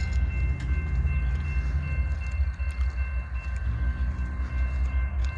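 Diesel locomotives of a slow-moving CSX freight train rumbling as they approach, a deep steady drone with faint steady high-pitched tones over it.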